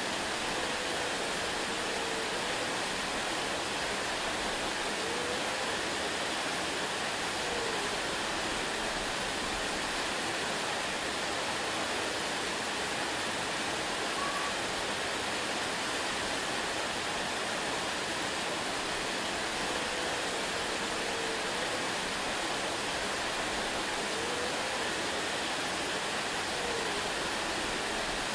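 Waterfall: a steady, even rush of falling water with no change in level, with a few faint wavering tones underneath that recur about twenty seconds apart.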